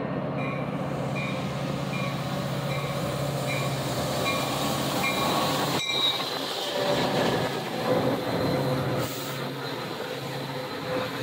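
Metra commuter train arriving: the diesel locomotive's engine hums steadily under a bell ringing about twice a second, and the locomotive goes by about halfway through. The bilevel passenger cars then roll past with thin brake squeal as the train slows into the station.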